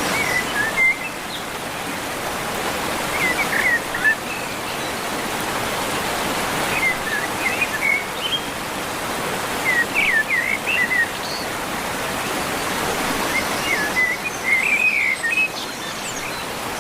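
Steady rush of running water, with a bird's short chirping phrases breaking in over it about five times, every three seconds or so.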